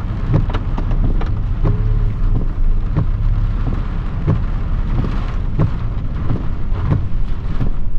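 Car engine idling steadily, heard from inside the cabin, with a short sharp tick repeating at an even pace about every 0.7 seconds.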